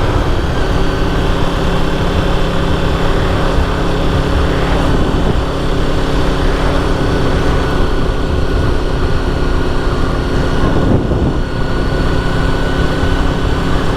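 Honda VFR750's V4 engine running steadily while riding, its tone shifting slightly a couple of times, with heavy wind rush.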